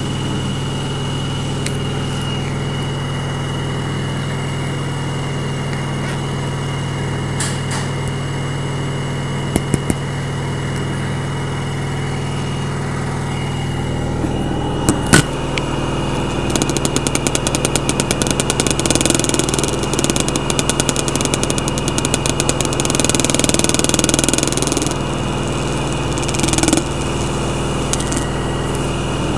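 LG washing machine on its final spin: a steady motor hum with a constant high whine. A few sharp clicks come near the middle, then a fast rattling runs for several seconds in the second half.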